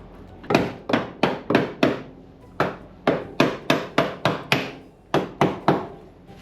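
Hammer blows: about fifteen sharp strikes in three runs of roughly three a second, with short pauses between the runs.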